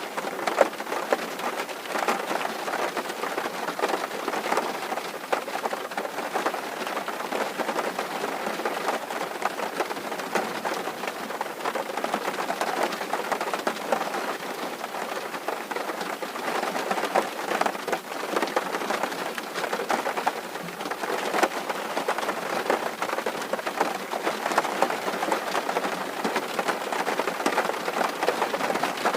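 Steady rain drumming on a tin roof: a dense, even patter of countless drops on the metal.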